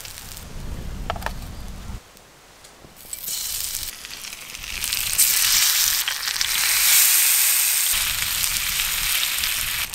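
Oil sizzling under paneer tikka skewers frying on a hot iron tawa. A low rumble and a short lull give way about three seconds in to sizzling that swells to its loudest in the middle and stays strong.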